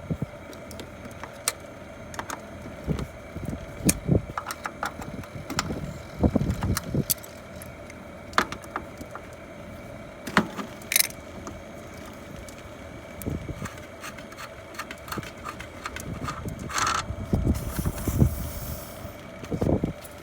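Air-conditioner installation work: scattered clicks, clinks and knocks of hand tools and metal parts, with a few heavier thuds and scrapes, over a faint steady hum.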